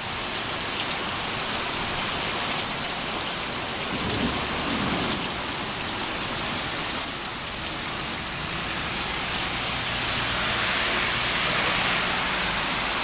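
Heavy rain falling steadily in a strong thunderstorm, with low rumbles of thunder underneath, one swelling about four seconds in.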